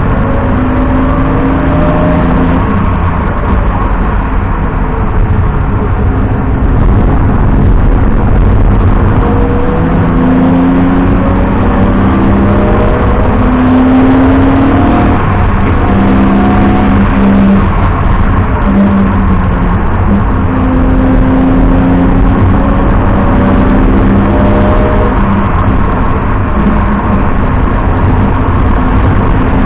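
BMW 330i E90's inline-six engine pulling hard, its pitch climbing through the revs and dropping back at each gear change several times over, over a steady low rumble of road noise.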